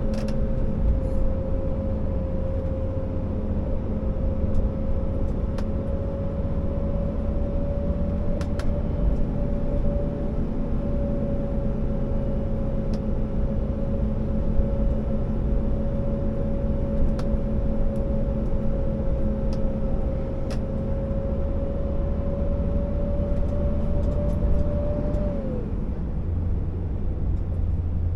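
Scania R650 timber truck's V8 diesel running steadily under way, a deep rumble with a steady whine over it; about 25 seconds in the whine drops away and the rumble changes.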